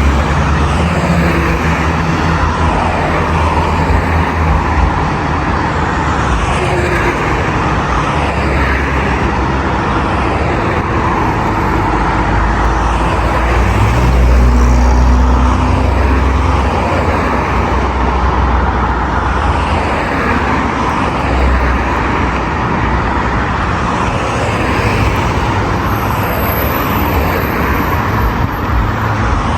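Steady road traffic: cars and heavier vehicles driving past on a busy boulevard, a continuous tyre and engine rumble that swells for a couple of seconds about halfway through, with a faint high whine near the end.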